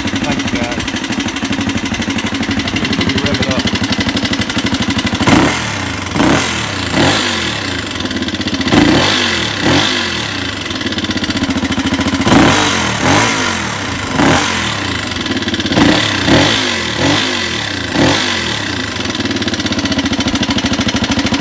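1985 Honda XR200R's single-cylinder four-stroke engine idling, then revved in about a dozen quick throttle blips before settling back to idle near the end. It has a tapping/ticking valvetrain noise, which the owner traced to rocker arms and camshaft pitted and wavy from lack of oil.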